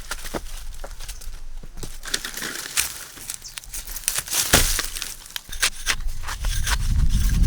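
Rustling and crinkling with many irregular sharp clicks and knocks, like material being handled during manual work; a low rumble builds near the end.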